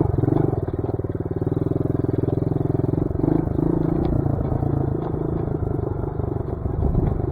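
Dirt bike engine running steadily at low revs, turning less even about three seconds in.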